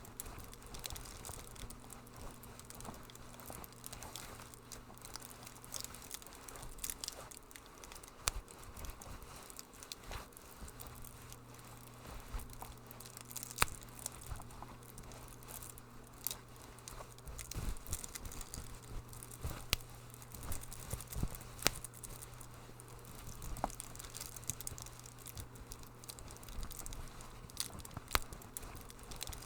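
Wood fire crackling, with irregular sharp pops and snaps over a soft hiss. A faint low hum runs underneath and drops out for a few seconds near the start.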